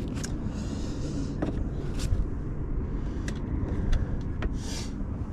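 Parts being handled and fitted back into place: several sharp clicks and knocks and two brief scrapes, over a steady low outdoor rumble.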